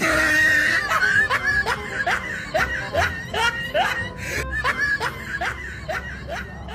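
High, squeaky snickering laughter, a comedy laugh sound effect: it opens with a loud burst, then goes on as a run of short rising "hee" sounds, about three a second, trailing off.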